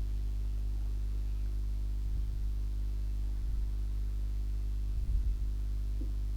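Steady low electrical hum with evenly spaced overtones, with a few faint low bumps.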